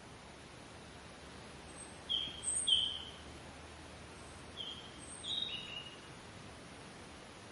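Small birds chirping: a few short, high chirps, some in quick pairs, over a steady hiss of outdoor background noise.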